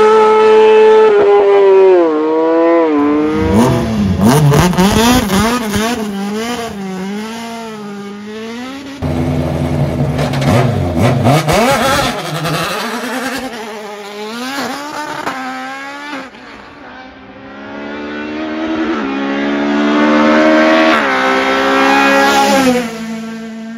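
Hillclimb race car engines at high revs, their pitch rising and falling again and again through gear changes and corners. The sound changes abruptly about nine seconds in to another car, fades briefly, then another engine note builds and rises near the end.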